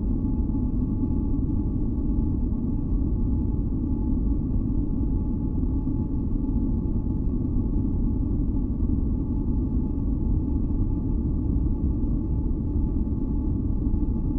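Steady, unchanging low rumbling noise for sleep and sound masking, with faint constant high tones held above it.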